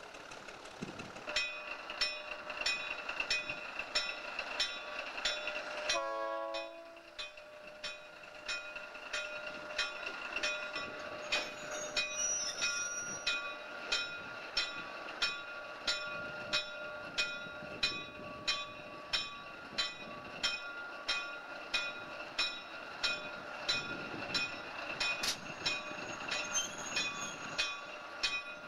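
Locomotive bell ringing steadily, about two strokes a second, on a switcher engine working coal hopper cars. A short horn blast sounds about six seconds in.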